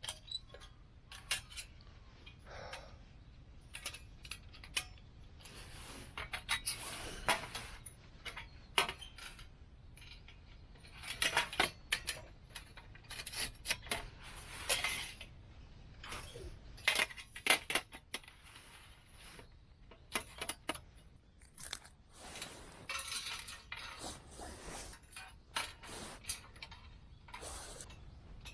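Metal camp cookware and gear clinking and clattering as it is handled and set out, in many irregular sharp knocks and rings.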